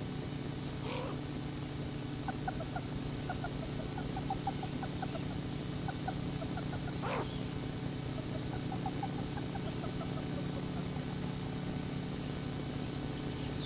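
Bird calls in quick runs of short chirping notes, over a steady hum and hiss, with a couple of brief sweeping calls.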